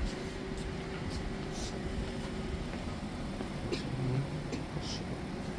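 Passenger train running, heard from inside the carriage: a steady rumble with a steady hum that stops about halfway through, and light clicks and rattles.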